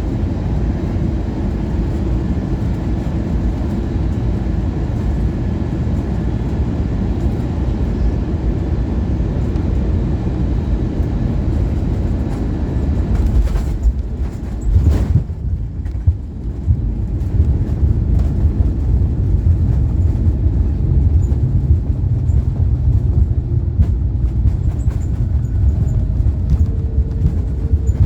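Airbus A321neo cabin noise: a steady low rumble, then a jolt about fifteen seconds in followed by a louder, rougher rumble. This fits touchdown and the landing rollout on the runway.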